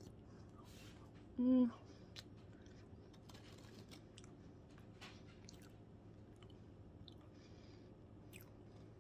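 A person chewing a mouthful of soft, juicy blueberry dump cake, with faint wet mouth clicks throughout. A brief hummed "mm" comes about one and a half seconds in.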